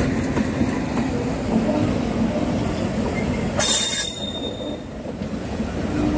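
Train running on the rails: a steady low rumble with wheel clatter over the track, and a brief high screech about three and a half seconds in.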